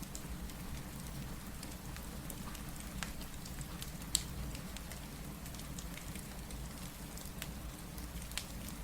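Steady rain mixed with a wood fire crackling in a fireplace, over a constant low rumble. Scattered sharp pops stand out, the loudest about four seconds in and another near the end.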